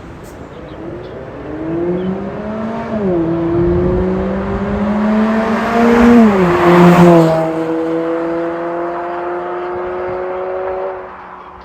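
Exhaust of a Hyundai Elantra 1.8 four-cylinder through an MS-R valved muffler, accelerating hard through the gears. The engine note climbs, drops at an upshift about three seconds in, and climbs again to its loudest. It drops at a second upshift about seven seconds in, holds steady, and falls away near the end.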